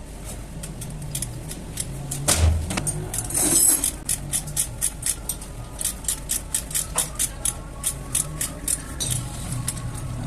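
Hand tools knocking on the metal parts of a motorcycle rear hub. There is one heavy knock about two and a half seconds in, a short scrape, and then a run of sharp metallic taps, about three a second.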